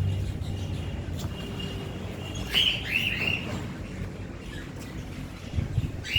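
Birds chirping: a faint thin note, then a burst of short rising chirps about two and a half seconds in and another near the end, over a low rumble.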